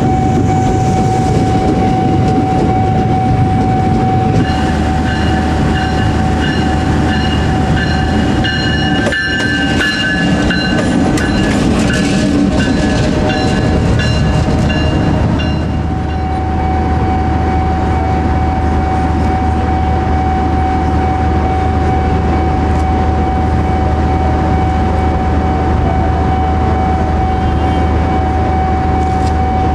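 Trains passing close by on the rails: an electric commuter train runs past, then a diesel locomotive goes by with a low engine hum and clicking wheels over rail joints. A steady high tone sounds under the rumble.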